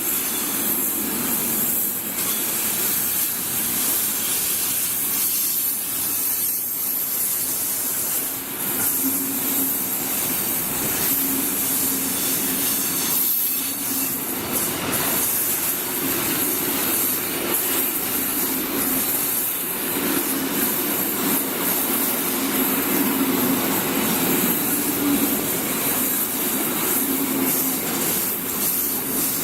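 A train at the station, a steady, continuous sound of hiss and a low hum with no pauses.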